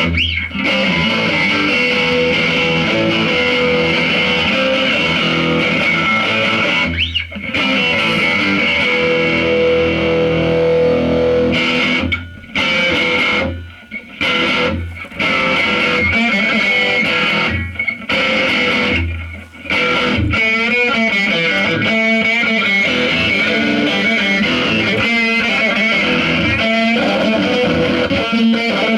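Live psychedelic noise music: a dense, distorted wall of effects-processed guitar sound. Several sudden short dropouts break it in the middle, and warbling, wobbling tones come in toward the end.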